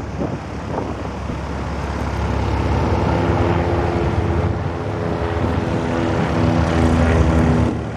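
Propeller plane's engine running, a steady drone that grows louder toward the end.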